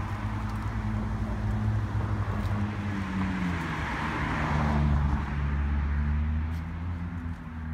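A motor vehicle engine running with a low, steady hum. Its pitch steps down partway through, and a hiss swells briefly around the middle.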